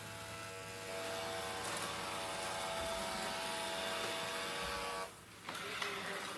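Dreame D20 Pro Plus robot vacuum's motor running with a steady whine made of several tones, then cutting off suddenly about five seconds in, followed by a few light clicks.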